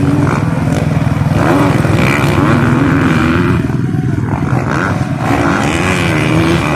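Motocross dirt bike engines running loud on the track, their pitch rising and falling as the riders rev through the course.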